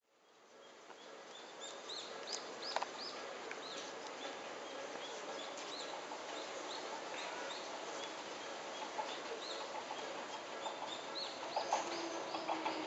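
Birds calling with short, repeated high chirps over a steady outdoor hiss. Near the end, the approaching Hakone Tozan Railway electric train comes up as a low hum with clicking wheels.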